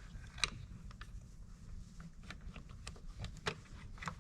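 Light clicks and taps of small parts being handled and fitted by hand as the throttle trigger and its linkage are worked into a Husqvarna 345 chainsaw's handle. About half a dozen separate ticks, the sharpest about half a second in and about three and a half seconds in.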